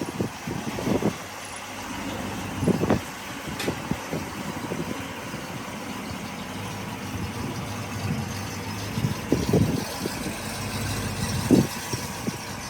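A road vehicle driving: a steady engine and road rumble with irregular short low thumps.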